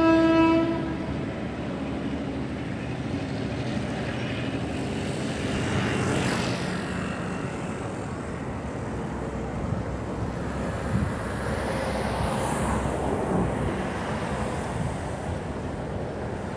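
A short horn blast in the first second, then a freight train running by with a steady rumble of wheels and engine.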